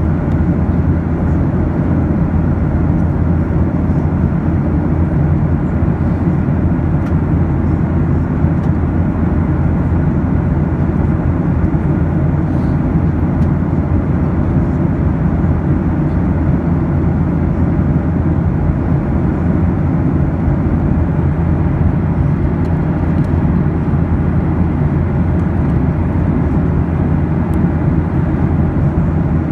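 Steady, deep in-flight drone of an airliner heard from inside the cabin: engine and airflow noise, unchanging throughout.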